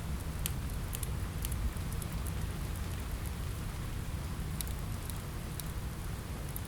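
Steady rain falling on a window over a low rumble, with sharp pops from a crackling fireplace fire scattered through, a few in the first second and a half and a few more near the end.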